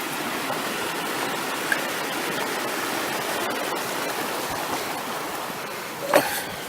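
Creek water rushing steadily, an even wash of flowing water, with one short, louder sound near the end.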